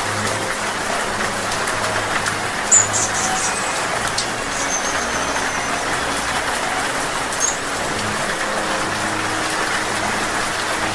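Steady rain falling and pattering on leaves, with a few very high, thin hummingbird chips and squeaks over it, the first about three seconds in.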